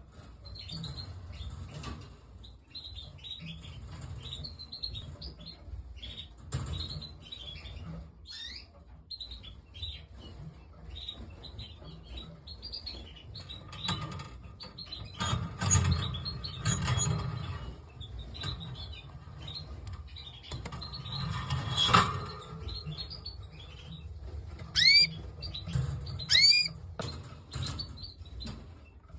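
Canaries chirping with many short calls throughout, over a low rumble and occasional knocks; near the end come three loud rising whistled calls.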